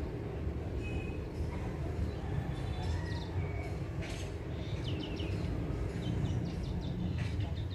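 Small birds chirping now and then, short high chirps and quick falling notes, over a steady low rumble.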